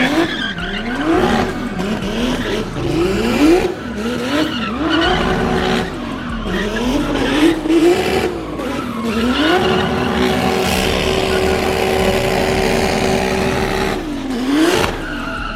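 Car engine revved up and down in quick repeated blips, then held at steady high revs for about four seconds before dropping and rising once more, with tyres squealing over it.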